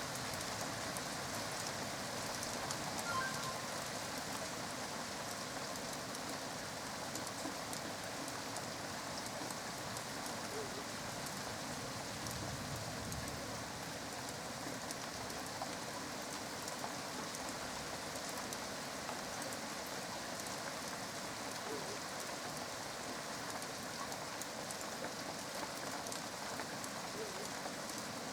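Steady rain falling during a thunderstorm, an even hiss of rain with many small drop ticks.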